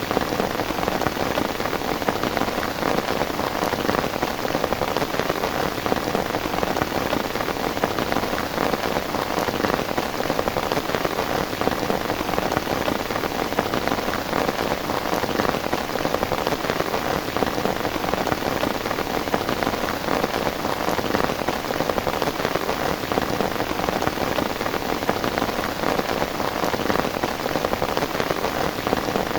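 Heavy rain falling steadily, a dense, even hiss of countless drops striking a surface.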